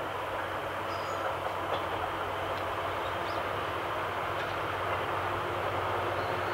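Train hauled by a DE10 diesel locomotive running along the line, a steady rumble with a low hum that slowly grows louder as it nears, with faint wheel clicks over the rail joints.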